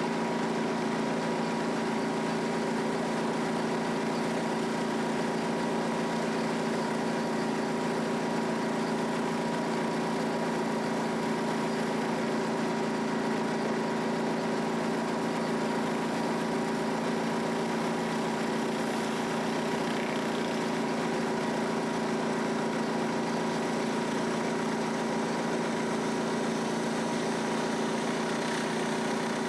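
Gas engine of a 3,500 PSI, 5.5 gallon-per-minute pressure washer running steadily at a constant speed.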